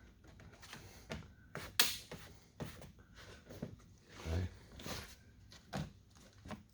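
Scattered light clicks and taps of plastic door trim being worked into place against the door's rubber seal, the sharpest about two seconds in.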